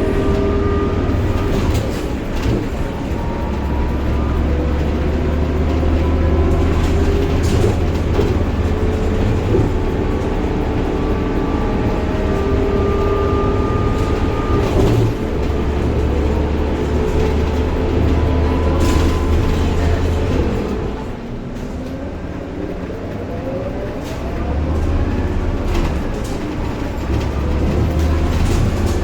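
Scania K230UB bus's DC9 diesel engine and ZF Ecomat 6HP504C automatic gearbox under way, with a high-pitched gear whine that rises and falls with speed. The whine and engine ease off about two-thirds of the way in, then climb again as the bus pulls away.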